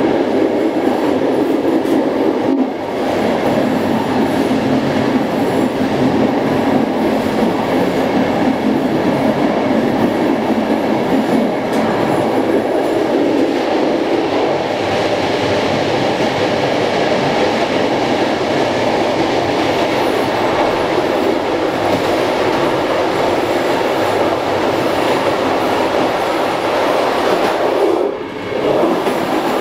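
Running noise of a passenger train at speed, heard from inside its last carriage, a type 141A second-class coach: a steady rumble of wheels on rails. It drops briefly twice, a few seconds in and near the end.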